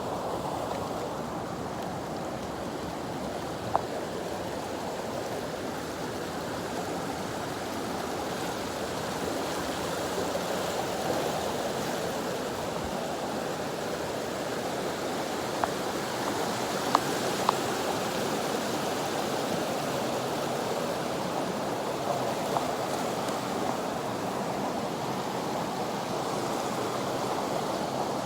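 Waterfall rushing: a steady, even roar of falling water, with a few brief knocks near the start and twice about halfway through.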